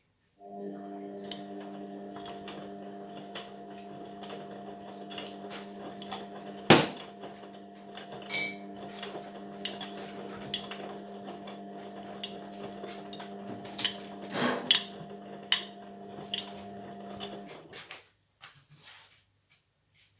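Indesit washing machine running: a steady hum starts just after the opening and stops a few seconds before the end. Scattered knocks and clunks ride on top, the loudest about a third of the way in and another pair about two-thirds of the way in.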